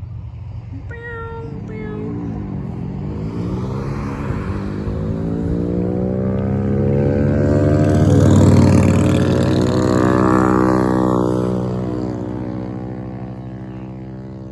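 A jet aircraft passing low overhead, loud. Its jet noise swells to a peak about eight seconds in and then fades away, with a sweeping, shifting whine as it goes by.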